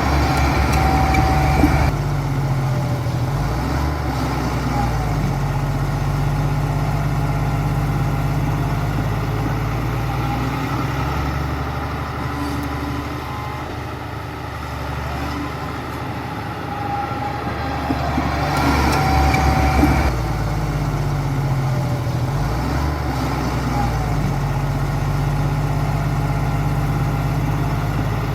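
Heavy diesel engine of a bulldozer running under working load, its pitch rising and falling. Two louder, rougher stretches stand out, one at the very start and one about two-thirds of the way through.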